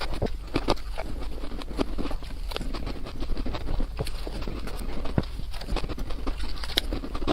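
Biting and crunching into white ice, sped up four times: a quick, irregular run of sharp crunches, several a second.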